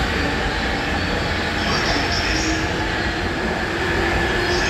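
Electric commuter train running past a station platform: a steady rumble with a slowly rising hum, and brief high wheel squeals about two seconds in and again near the end.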